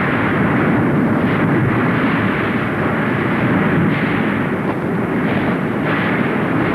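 Volcanic eruption: a loud, continuous rumbling noise with a few brief surges, about one every two seconds.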